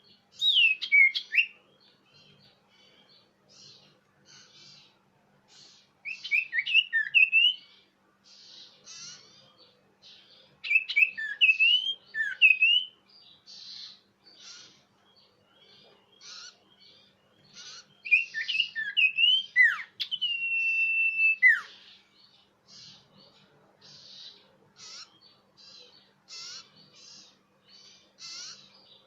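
Common iora (cipoh) calling. Four loud bursts of clear, quick whistled notes, the last ending in a long held whistle, with rapid quieter chip notes between the bursts.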